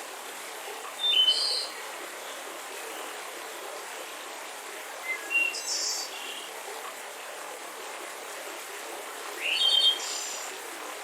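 Mountain river rushing steadily, with songbirds calling over it: three short chirping phrases, about a second in, around five to six seconds, and near the end.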